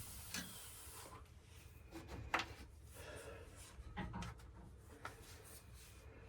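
Faint scattered clicks and scraping from hand work with a screwdriver on the wiring screws and clamp, with one sharper click about two and a half seconds in.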